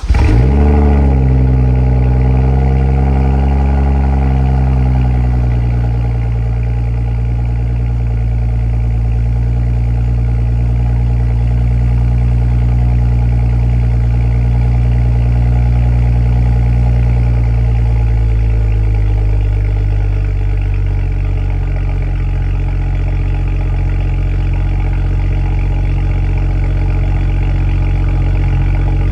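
A 2013 BMW 135is's turbocharged 3.0-litre inline-six runs at a fast cold-start idle. The idle flares as the engine catches, then holds steady. About 19 seconds in it steps down to a lower, steady idle.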